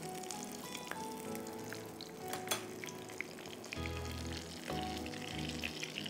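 Food frying in hot oil, a steady sizzle, with one sharp click about two and a half seconds in.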